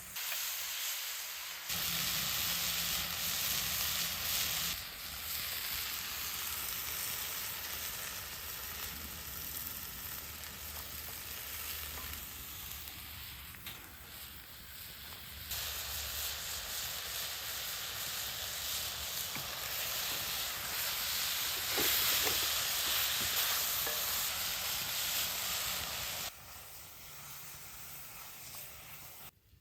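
Food sizzling and frying in a cast-iron pan over a campfire, a steady hiss that jumps in level at several abrupt cuts.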